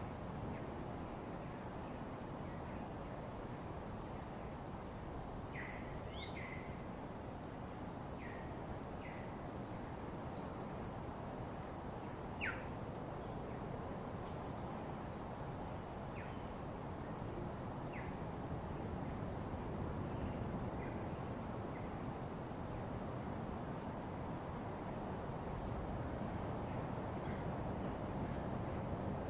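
Tropical birds giving short, scattered chirps and quick whistled sweeps every second or two over a steady rushing background, with a constant high insect-like tone.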